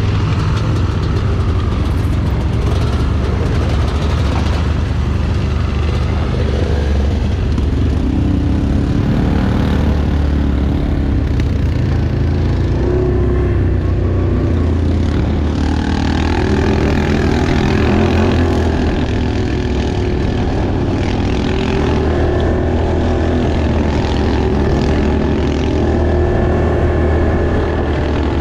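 Off-road vehicle engine running steadily while under way, a continuous low drone whose note shifts up and down somewhat as the revs change.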